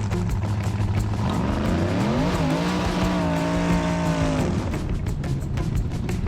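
A vehicle engine revs up over about a second, holds a steady pitch for about two seconds and then cuts off sharply, over background music with a steady beat.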